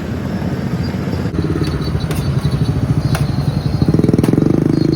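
A small vehicle engine running close by with a fast, even putter, getting louder near the end.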